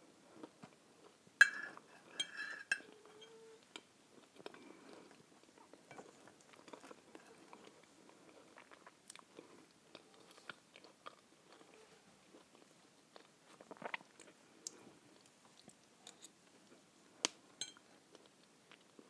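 Close-up chewing of bread topped with mackerel in tomato sauce, with a knife and fork clicking and scraping on a plate as the open sandwich is cut. The sharpest clicks come about a second and a half in, again a second later, and near the end.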